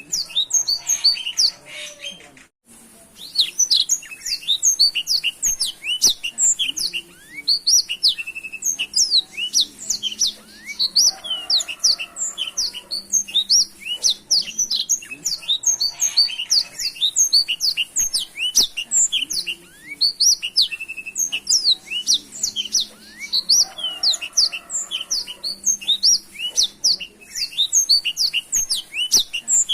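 Black-throated canary (blackthroat) singing a fast, unbroken song of high chirps and short trills, with one brief pause about two and a half seconds in.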